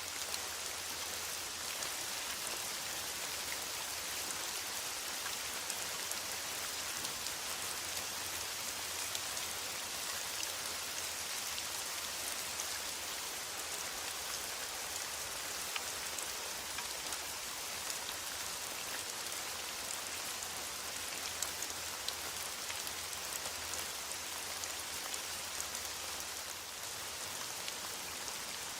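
Steady rain falling in a forest, an even hiss with scattered drop ticks.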